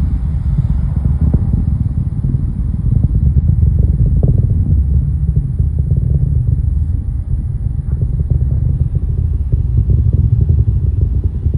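Falcon 9 rocket's engines heard as a steady, deep rumble with irregular crackling during the climb after lift-off.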